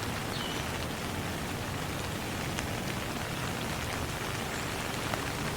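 Steady rain falling, an even patter with a few faint drop ticks.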